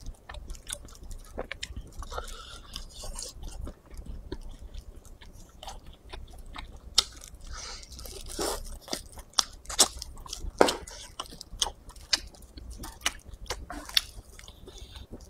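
Close-miked chewing and biting of shredded, chewy sauce-braised duck meat, with many irregular sharp clicks and crunches.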